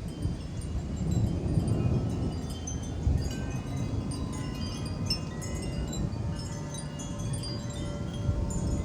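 Metal wind chimes ringing in gusty storm wind, many overlapping high tones, over a low rumble of wind.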